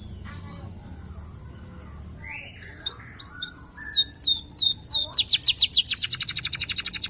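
Canary singing: after about two quiet seconds, a run of high whistled notes that each sweep downward, breaking into a fast rolling trill of about ten notes a second that stops at the end.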